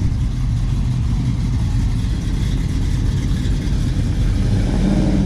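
Classic muscle car engine running steadily at low speed as the car drives past, a low engine sound.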